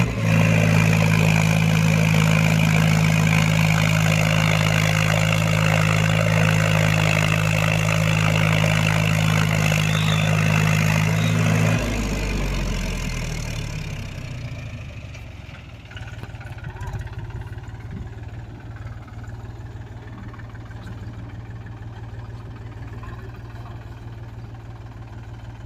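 Mahindra tractor's diesel engine running steadily under throttle, then throttled back about halfway through, its pitch sliding down over a couple of seconds and settling into a quieter, steady idle.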